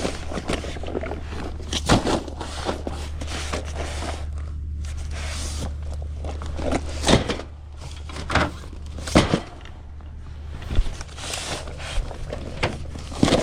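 Irregular knocks, clacks and scrapes of soda bottles and cases being handled and stacked, over a steady low hum.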